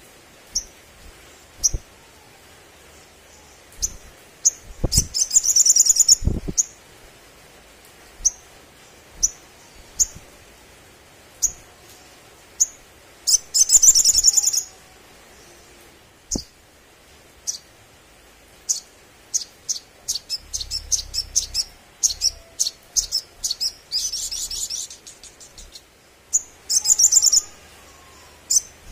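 Olive-backed sunbird song: sharp, high single chips repeated at uneven intervals, broken four times by a fast, loud, chattering trill about a second long. A few dull low thumps sound alongside the first trill.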